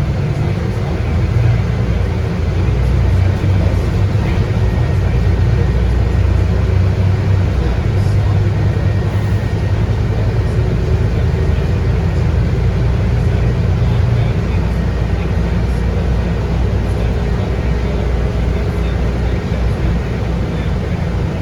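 Scania K230UB bus under way, its 8.9-litre five-cylinder Scania DC9 diesel engine running with a steady low rumble and road noise, heard from inside the bus. The rumble is a little stronger for the first two thirds, then eases slightly.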